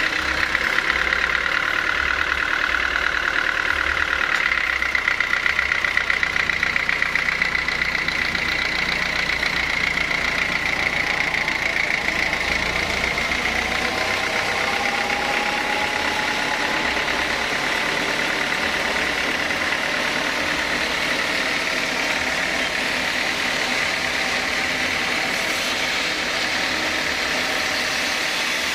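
Sawmill saw running steadily with a high whine over a low engine drone.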